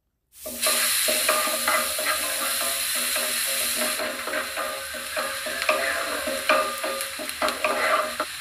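Diced onion and garlic frying in melted butter in a nonstick pan, sizzling steadily, with a wooden spatula stirring and scraping across the pan. It starts abruptly after a moment of silence.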